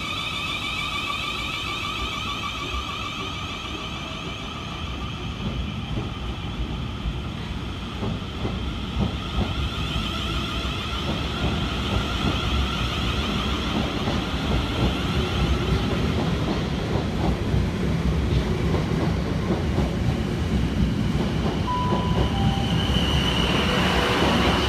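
Class 450 and Class 444 Siemens Desiro electric multiple units pulling out of the station. Their traction motors whine in several steady tones that fade over the first half, then the wheels rumble and click over the rail joints, growing steadily louder toward the end.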